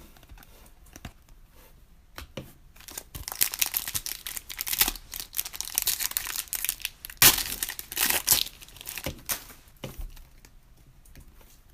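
Trading card pack wrapper being torn open and crinkled: a crackling run of tearing that starts about two seconds in, peaks near the end, and dies away.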